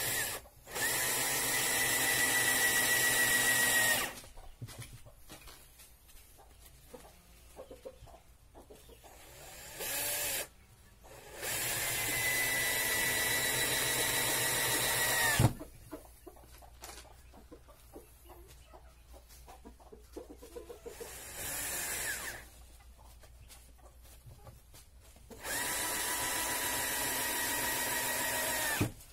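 Power drill running in several bursts of a few seconds each, a steady whine that winds down as each one stops, while wooden boards are being joined into a hive box. Chickens cluck in the background.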